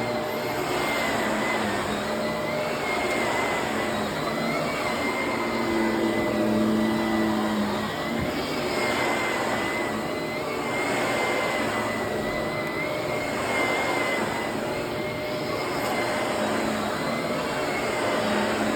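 Vacuum cleaner running steadily, its motor whine wavering slightly, the noise swelling and easing every couple of seconds.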